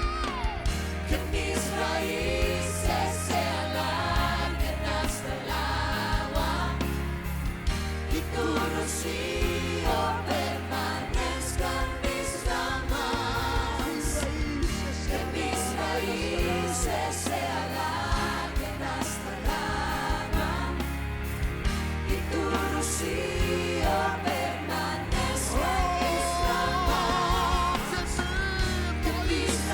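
Worship music: a band with a steady bass and cymbals, and voices singing together.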